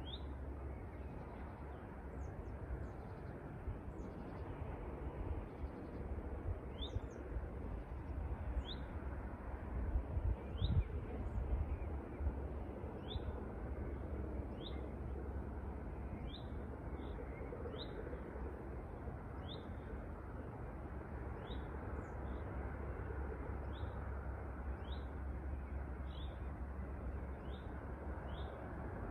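A songbird repeating a short, high chirp roughly once a second, over a steady low rumble that swells briefly about ten seconds in.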